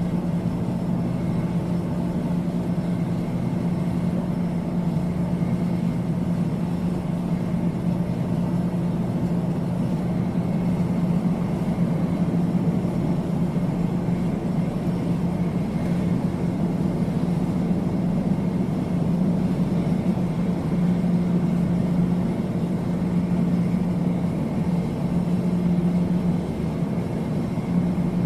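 Airplane engine drone, steady and unbroken, with a strong constant low hum.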